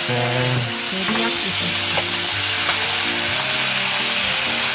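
Eel fillets sizzling in a frying pan as a soy-sauce glaze reduces around them, with a spoon stirring and scraping through the sauce.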